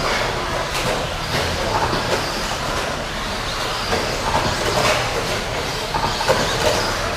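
Several 1/10-scale electric stadium trucks with 13.5-turn brushless motors racing: motors whining and tyres running on the track, with repeated short knocks and clatter from the trucks landing and bumping.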